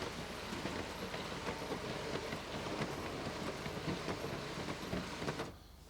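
Electric AlluGuard roller garage door running, its aluminium laths rattling steadily as they roll, stopping suddenly about five and a half seconds in.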